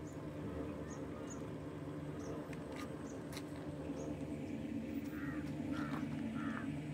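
A bird calls three times in quick succession near the end, over a steady low hum, with faint high chirps earlier.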